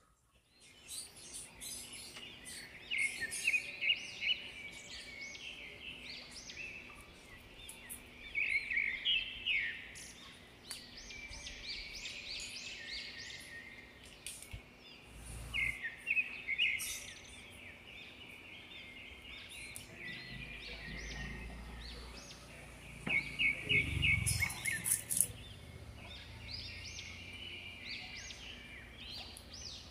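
Small birds chirping in repeated bursts of quick, high calls, with a couple of dull low knocks in between.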